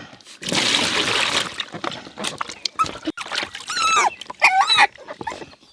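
Water splashing over a dog being bathed for about a second, then the dog gives a few short high-pitched whines.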